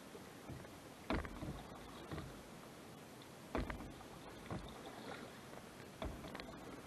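Canoe paddle strokes in lake water, each one a short sharp splash. The strokes come about every two and a half seconds, three in all, with smaller drips and swishes after each.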